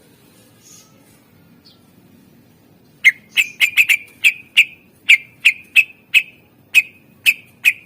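Cucak ijo (green leafbird) calling: a fast run of about fourteen sharp, loud, repeated notes, roughly three a second, that starts about three seconds in after a quiet stretch.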